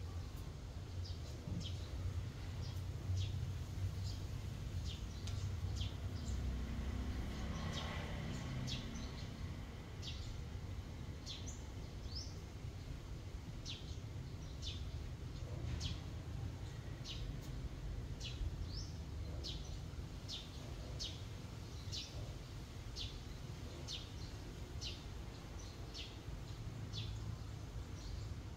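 A small bird chirping over and over in short, high, falling notes, about one a second, over a steady low rumble of background noise.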